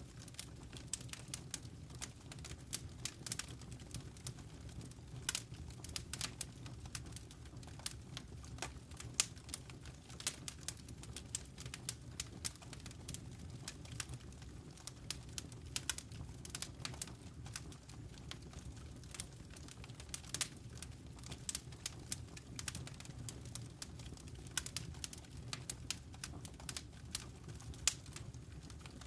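Wood fire in a fireplace crackling, with many sharp irregular pops and snaps over a low steady rumble of the flames.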